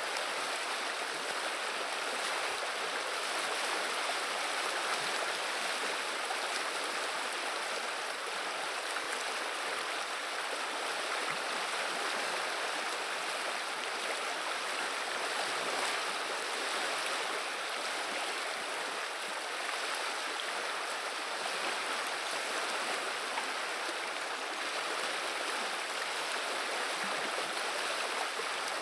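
River water running and babbling in an even, unbroken rush.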